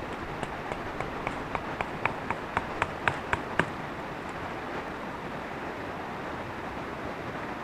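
A quick run of about a dozen evenly spaced taps, about four a second, growing louder and then stopping, over a steady background hiss.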